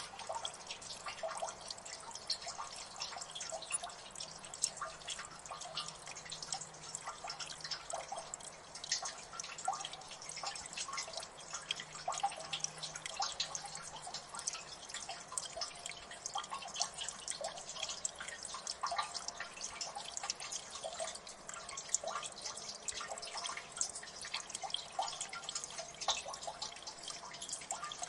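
Water dripping in a gully: many small drops falling at an irregular, quick pace over a faint steady hiss of water.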